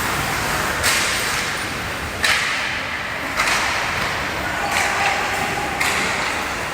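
Sounds of play in a hockey game: about five sudden hissing scrapes a second or so apart, each with a sharp start and some with a knock at the onset.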